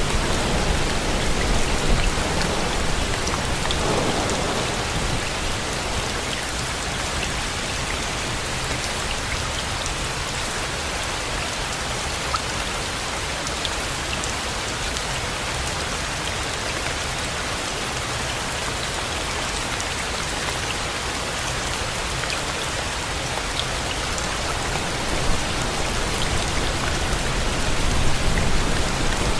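Steady rain falling, a dense even hiss with scattered small drop ticks. A low rumble swells near the start and again near the end.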